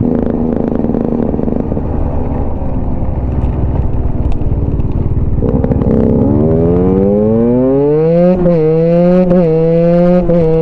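Husqvarna enduro motorcycle's single-cylinder engine under way. It runs rough and low for the first several seconds, then revs up with a steadily climbing pitch and holds high revs, dipping briefly a few times.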